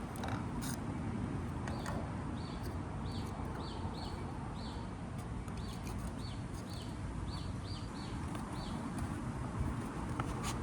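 A small bird calling over and over: short, high chirps that slide downward, about two a second, through most of the stretch. Under it there is a steady low rumble with a few scattered clicks.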